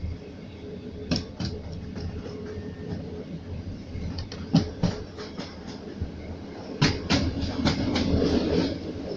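Railway carriage wheels clacking over rail joints and points, the clacks coming in close pairs and more often after about four and a half seconds, over a steady rolling rumble.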